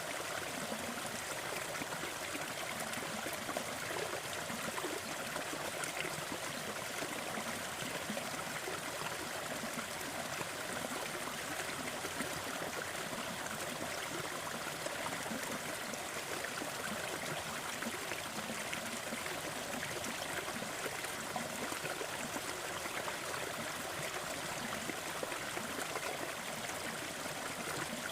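Steady rushing noise with faint scattered crackles: a fireplace crackling under a continuous noise bed, as in a sleep soundscape.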